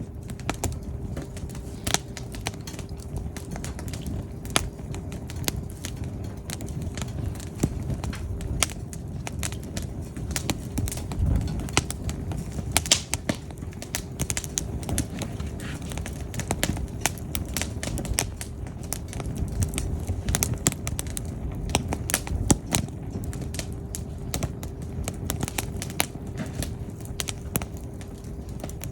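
Burning firewood crackling and popping: irregular sharp pops and snaps over the low, steady rumble of the flames.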